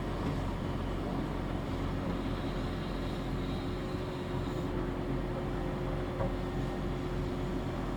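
Heavy diesel construction machinery running steadily: a continuous engine drone with a low, even hum.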